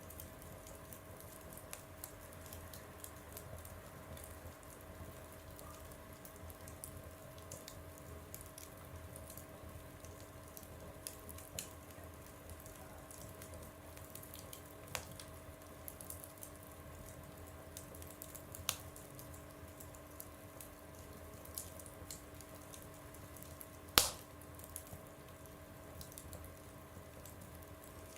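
Wood fire burning in a stove, with scattered small crackles over a low steady rumble and one loud pop near the end.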